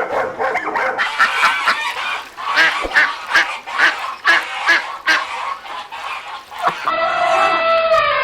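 Domestic fowl calling, a rapid series of short honking calls about two a second. Near the end a different, steady pitched sound takes over.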